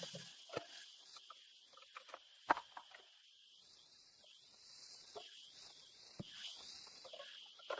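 Faint, scattered clicks and light knocks of workshop handling, the sharpest about two and a half seconds in, over a steady background hiss.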